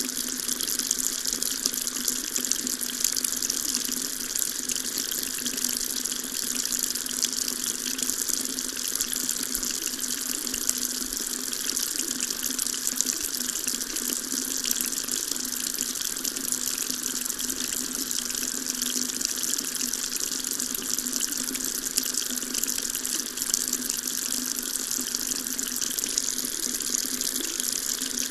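Water tap running steadily into a sink: an even splashing hiss of the stream that does not change.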